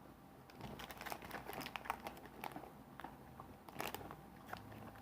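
Close-up mouth sounds of someone chewing a white-chocolate candy bar with crunchy cookie bits: faint, irregular crunching and clicking.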